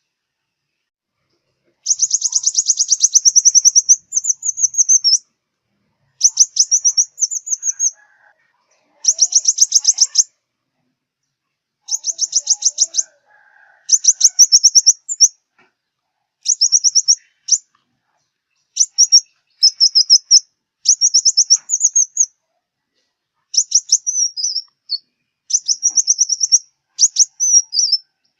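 Sunbird song, the bird Vietnamese keepers call the five-colour sunbird: bouts of rapid, high, buzzy twittering trills, each a second or two long, repeated with short silent pauses between them.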